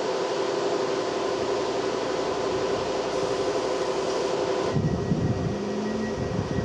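Diesel-electric Class 230 D-Train running steadily with an even hum while it stands. About three-quarters of the way through the sound changes to a deeper, uneven engine sound with a steady hum.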